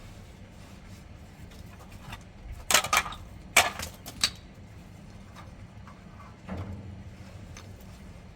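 A quick run of sharp clatters and knocks of hard objects, bunched together about three to four seconds in, with a softer thud a little later, over a low steady background hum.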